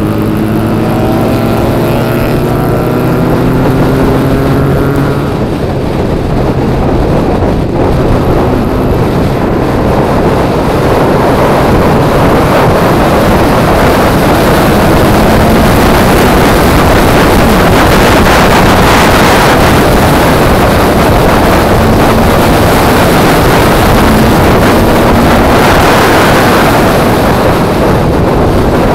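Peugeot 106's 1.6 16-valve four-cylinder engine pulling hard, its note climbing in pitch over the first few seconds. It is then largely buried under loud wind rushing over the car-mounted microphone as speed builds, and the engine note climbs again near the end.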